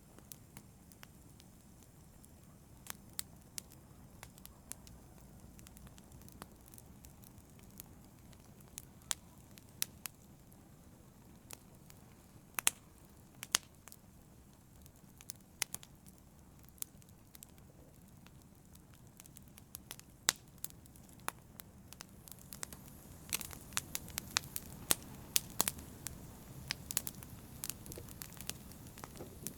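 Wood fire burning in a fireplace: a low, steady rumble of flames with sharp, irregular crackles and pops from the burning logs, the pops coming thicker and louder in the last few seconds.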